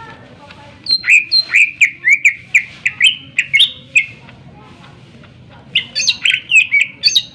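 Cucak ijo (green leafbird) singing hard in two fast runs of sharp, gliding whistled notes, about four a second, with a pause of a couple of seconds between them. This is the bird in full, worked-up song.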